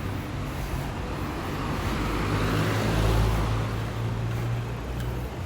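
A motor vehicle passing, its engine and road noise swelling to a peak about three seconds in and then fading.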